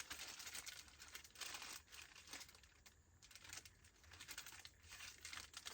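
Faint, irregular rustling and crinkling of packaging being handled while items are taken out of a box.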